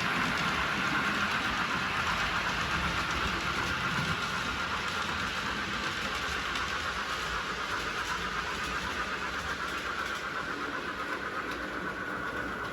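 Model railway locomotive running on the layout's track: a steady electric motor whine over the rumble of wheels on rail, easing slightly toward the end.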